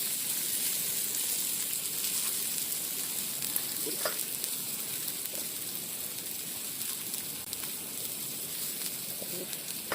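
Food sizzling steadily on an overheated iron griddle plate over a wood fire, with a few faint ticks. The plate is too hot and the food is scorching.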